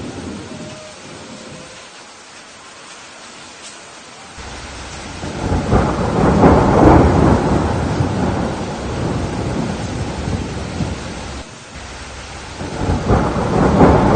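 Steady rain hissing, with rolling thunder rumbles building over it: a long one starting about four seconds in and fading out by about eleven seconds, then a second beginning to swell near the end.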